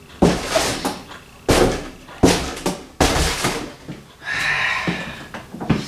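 Handling noise from a large bird feeder being opened for filling: several rustling, knocking bursts, then about a second of squeaky scraping about four seconds in, and a sharp click near the end.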